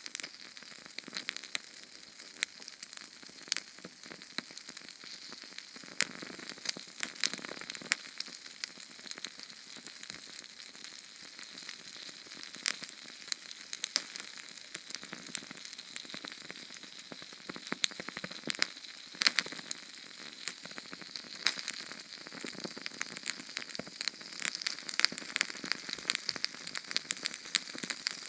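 Small Sterno canned-fuel flame burning with a steady soft hiss and frequent irregular sharp crackles and pops.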